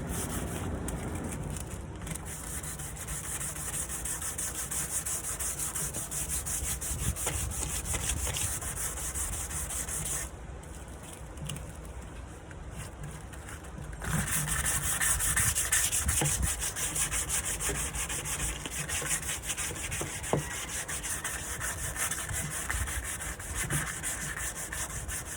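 Sanding a nightstand's surface to prepare it for primer, a steady rubbing that eases off for a few seconds in the middle and comes back louder about fourteen seconds in.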